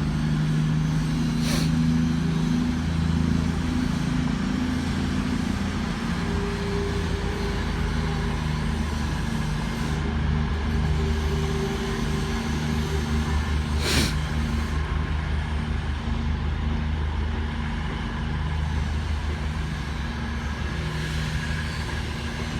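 Class 221 Voyager diesel-electric multiple unit's underfloor diesel engines running as it pulls away, a steady low drone that eases slightly. Two sharp knocks come through, about a second and a half in and again about fourteen seconds in.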